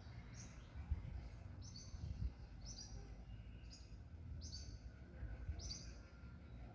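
A bird calling over and over, a short high chirp about once a second, over a low rumble of wind.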